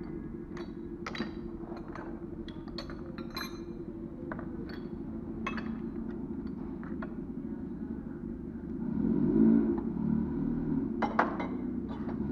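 Scattered metallic clinks and taps of tools and parts being handled, over a steady low hum that swells about three-quarters of the way through.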